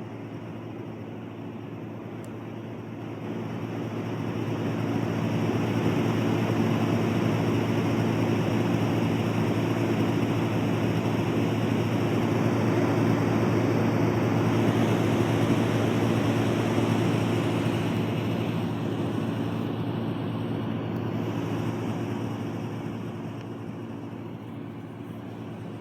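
LectroFan Micro sound machine playing one of its low-pitched white noises, with a steady buzz riding on the hiss: the buzzing fault that shows up on its lower-frequency noise settings. It grows louder a few seconds in and eases off in the second half.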